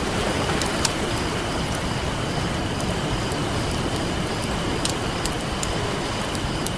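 Campfire crackling with scattered sharp pops, the loudest just under a second in, over the steady wash of ocean surf.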